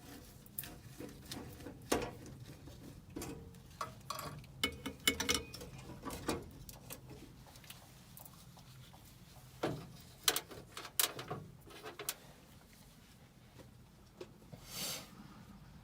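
Irregular light clicks, taps and knocks of hand tools and sheet-metal parts being handled while a gas furnace's burner assembly is taken apart, with a brief scrape near the end.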